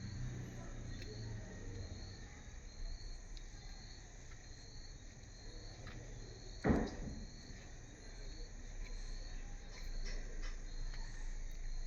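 Insect chirping in a steady rhythm, about two short high chirps a second, over faint background hiss. A single thump about seven seconds in is the loudest sound.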